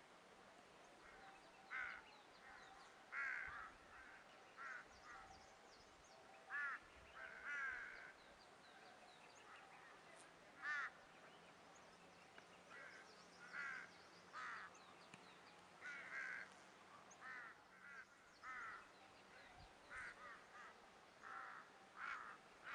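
Birds calling: short calls repeated irregularly, roughly once a second, with fainter high-pitched chirps in between.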